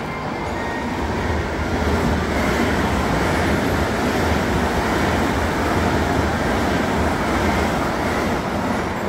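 High-speed electric multiple-unit train passing close by: a rushing rumble of wheels and air that builds over the first two seconds, holds steady, and eases off near the end.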